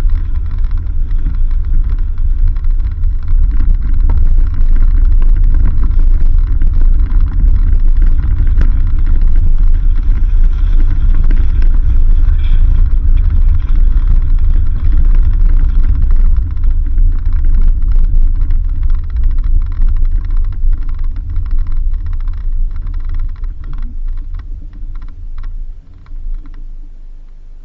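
Vehicle driving on a dirt road: a loud, steady low rumble, with scattered clicks and knocks in the second half. It fades over the last several seconds and drops off sharply near the end.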